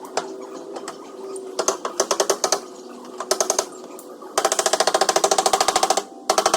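Rapid metal tapping on car body sheet metal, a tool striking about fifteen times a second in four runs, the longer two in the second half.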